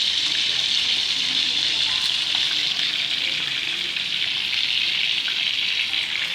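Chicken wings sizzling in hot oil in a frying pan, a steady frying hiss.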